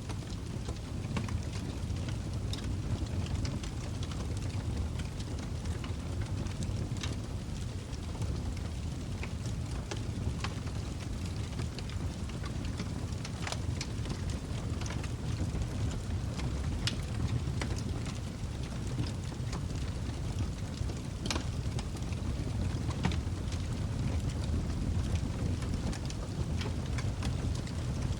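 Log fire burning in a fireplace: a steady low rumble of flames with scattered sharp crackles and pops from the burning logs.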